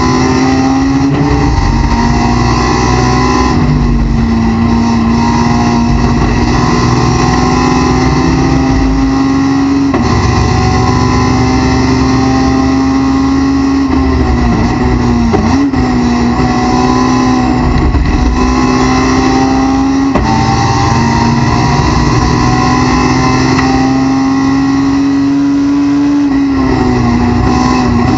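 Honda S2000 race car's four-cylinder engine at full throttle, heard from inside the cockpit. The revs climb steadily in each gear and drop sharply at each gear change, twice clearly. Midway a lift and a quick throttle blip mark a downshift under braking.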